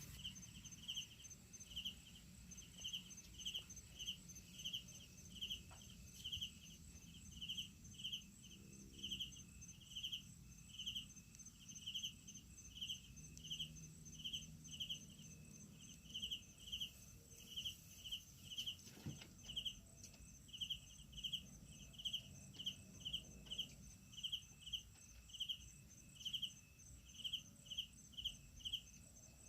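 Crickets chirping at night: short chirps, one to two a second, over a steady high insect trill.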